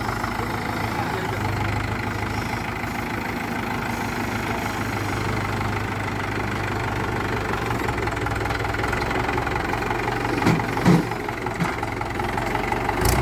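Diesel engine idling steadily, with a couple of short louder sounds about ten and eleven seconds in and a sharp click near the end.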